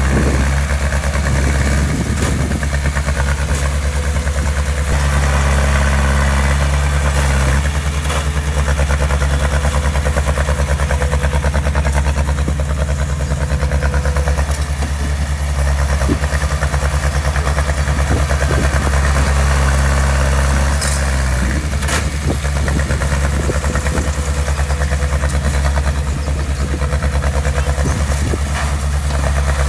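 Heavy-equipment diesel engine running steadily, with its level swelling a little at times and a single sharp knock about two-thirds of the way through.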